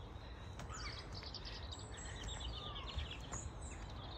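Small birds singing and chirping: a run of quick, high repeated notes about a second in, lasting a couple of seconds, then a few short chirps, over a low steady outdoor rumble.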